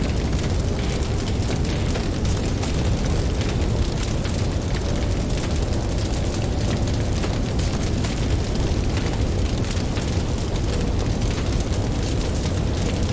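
Campfire crackling with many small, quick pops over a steady deep rumble of ocean surf.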